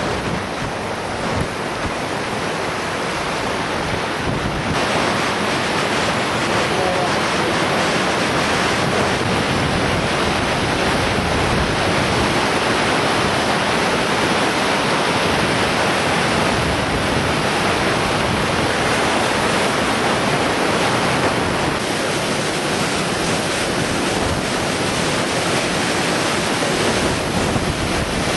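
Loud steady rushing noise of floodwater, mixed with wind buffeting the microphone; its tone shifts slightly about five seconds in.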